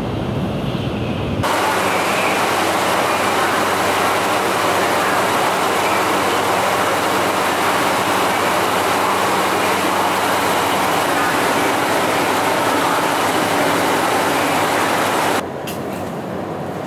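Train at a station platform: a loud, steady mix of rumble and hiss with a low hum underneath. It starts and stops abruptly. Near the end it gives way to the quieter ambience inside a train car, with a few faint clicks.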